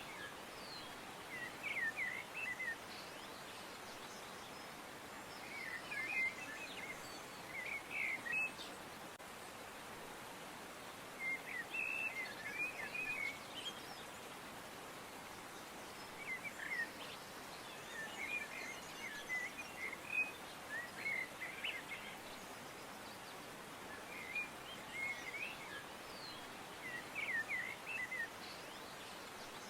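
Small birds chirping in short clusters of quick, high twittering notes every few seconds, over a steady soft hiss.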